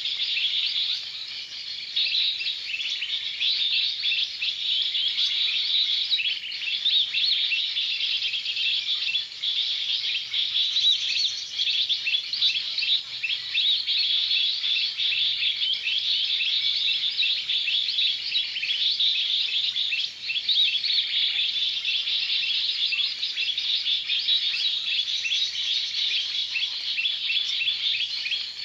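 A dense, unbroken chorus of rapid, high-pitched bird chirps and twitters, going on steadily without a pause.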